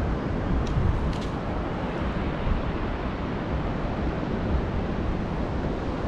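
Steady rush of wind buffeting the microphone over the sound of surf breaking on a beach.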